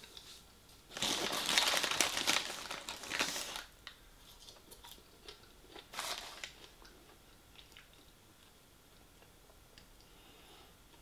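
Close-up crunchy chewing of battered sweet and sour chicken balls: a dense stretch of crunching from about one to three and a half seconds in, another short crunch around six seconds, then only faint mouth clicks.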